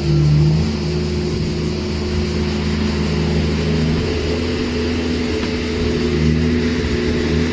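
Engine of a heavy machine running steadily at an even pitch.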